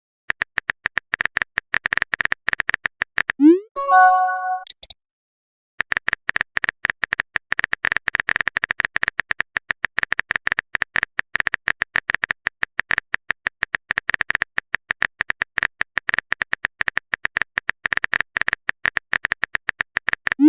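Rapid, irregular run of short electronic blips, like a text-typing sound effect, pausing briefly near the middle. About three and a half seconds in, a short rising swoop ends in a brief chime.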